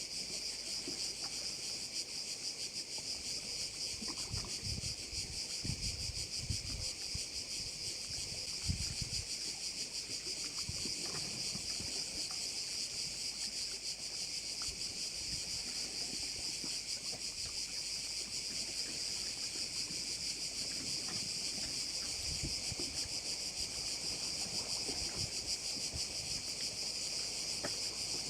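A dense, unbroken chorus of crickets shrilling steadily, with a few low rumbles of wind on the microphone.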